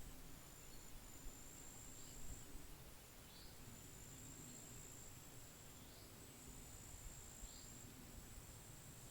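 Faint pond-side nature ambience: a high, steady insect trill that breaks off and resumes, with short high chirps every second or two over a low rumble of wind.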